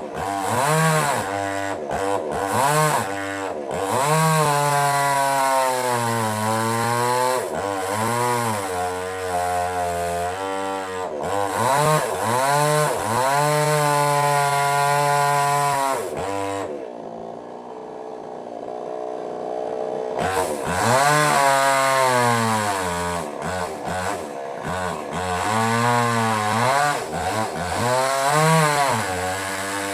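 Small two-stroke petrol chainsaw cutting wood, its engine revving up and down over and over as the chain bites. About halfway through it drops to a low idle for a few seconds, then revs up again.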